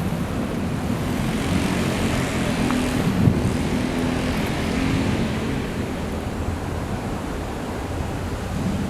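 Yamaha RZ two-stroke parallel-twin engine (a 350 in an RZ250 frame) running through its expansion-chamber exhausts, the engine note steady apart from a brief dip and recovery about three seconds in, with wind noise on the microphone.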